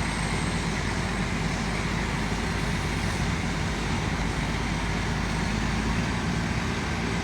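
Fire truck's engine running steadily, a constant low rumble with a steady hiss over it.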